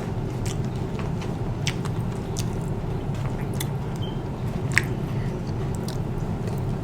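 A person chewing food close to the microphone: soft, wet mouth sounds with scattered small clicks, over a steady low hum.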